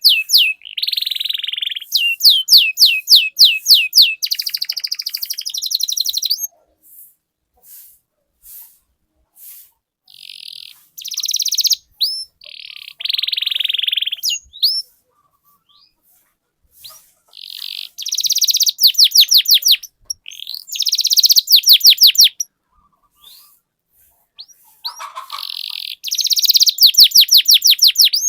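Domestic canary singing a long rolling song: fast trills of rapidly repeated high notes in phrases, broken by pauses a few seconds long.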